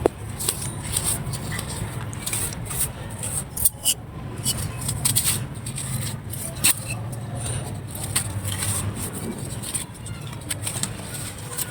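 Dry clay crumbling under light finger pressure: a steady run of crisp crackles and small snaps, with a few louder cracks, one a little under four seconds in and another near seven seconds.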